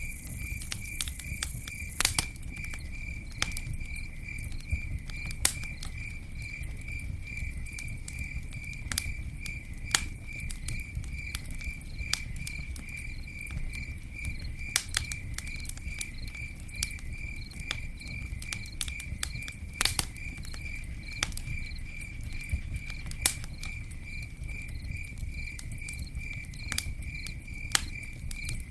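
Campfire crackling, with sharp irregular pops over a low steady rumble, while a cricket chirps in a fast, even, unbroken pulse.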